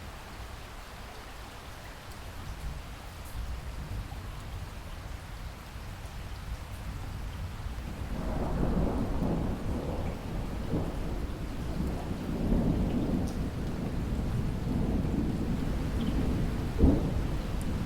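Steady rain with rolling thunder that builds from about halfway through, with a sharper crack of thunder near the end.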